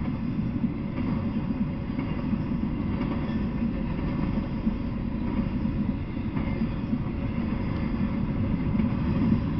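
Intermodal freight train of semi-trailers on flatcars rolling past, its wheels making a steady low rumble on the rails.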